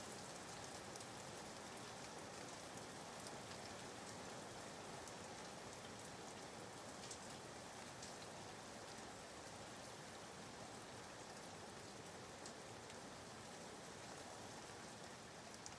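Soft, steady rain falling, a faint even patter of raindrops used as a white-noise background.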